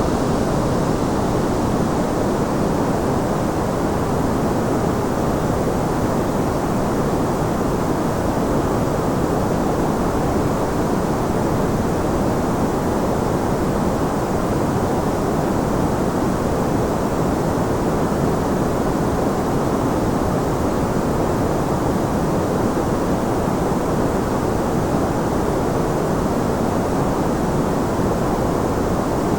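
Steady sleep-aid white noise: an even, unchanging hiss with most of its energy low, and a deep, soft tone with little above about 2 kHz.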